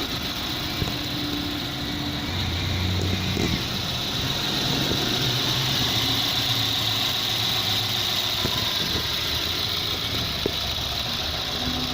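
Subaru EJ20 2.0-litre quad-cam flat-four engine idling steadily, 'ticking away'.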